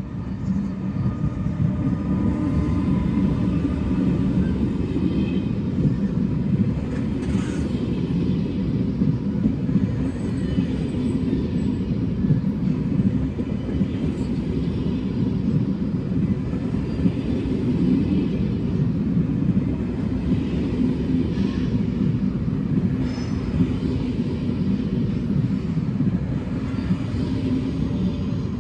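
Train running on the rails: a steady, loud rumble that swells up in the first second and holds.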